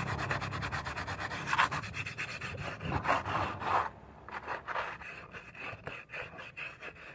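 Sandpaper being rubbed by hand over a fibreglass-patched plastic motorcycle fairing in quick back-and-forth strokes, the dry rasp of smoothing the resin repair level. The strokes grow quieter about four seconds in.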